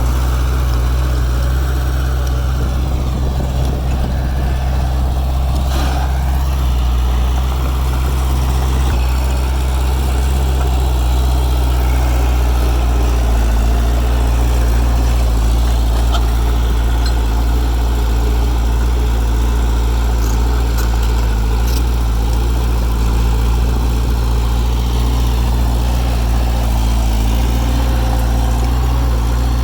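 Heavy diesel engine of construction machinery running steadily at a constant low speed, with a few faint clicks over it.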